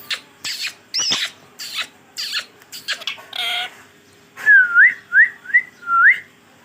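Indian ringneck parakeet making a run of short, sharp chattering calls and a harsher squawk, then four short rising whistles in quick succession about two-thirds of the way in.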